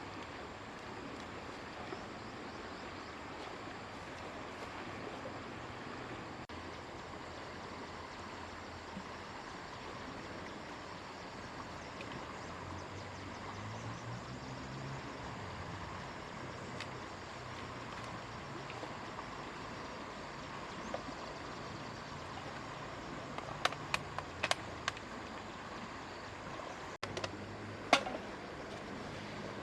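Steady rush of flowing water. A few sharp clicks come near the end.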